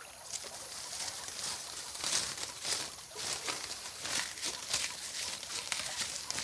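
Irregular rustling and crackling, many short scratchy sounds at uneven intervals with no steady tone.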